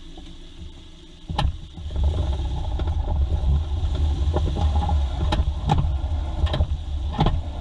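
Mazda 2 making its knocking fault: a sharp knock about a second in, then a steady low rumble with several more sharp knocks at uneven intervals.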